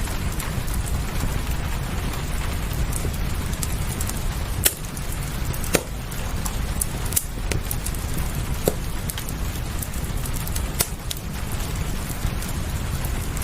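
Fireplace crackling, with scattered sharp pops, over a steady hiss of rain and a low rumble.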